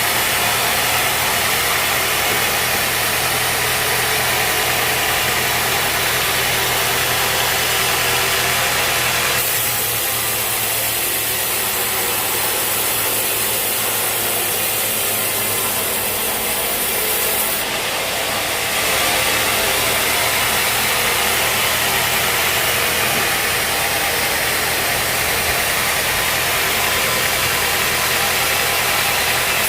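Engine-driven sawmill running steadily: a low engine hum under a loud broad hiss, the sound changing abruptly twice, about a third of the way in and just past the middle.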